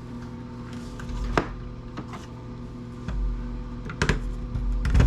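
Scattered sharp clicks and knocks of hand tools and small metal parts being handled while an electric wood planer is taken apart: one about a second and a half in and a cluster around four to five seconds in, over a steady low hum.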